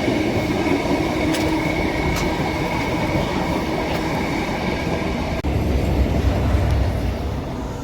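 Steam-hauled excursion train running along the track: a steady rumble of wheels on rail with a few sharp clicks, the low rumble growing heavier about five seconds in.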